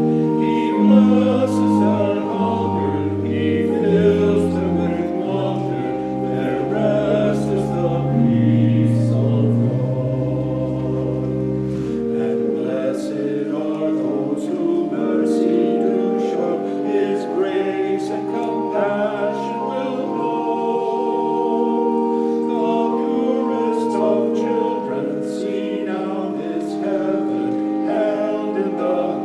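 A choir singing slow sacred music in long held chords. The low bass notes drop out about twelve seconds in.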